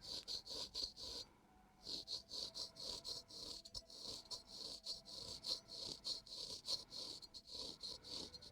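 Razor scraping across the skin of a man's forehead in quick short strokes, about three a second, with a brief pause a little over a second in.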